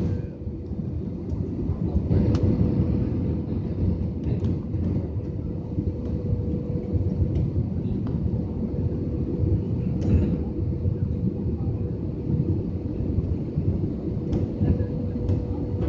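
Jet airliner's engines heard as a steady low rumble with a constant hum, typical of an aircraft on approach.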